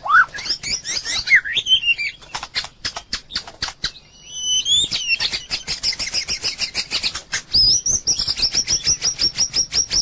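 White-rumped shama singing. Varied whistled phrases and a burst of sharp rapid clicks give way, about halfway through, to a fast run of repeated high notes at roughly four to five a second.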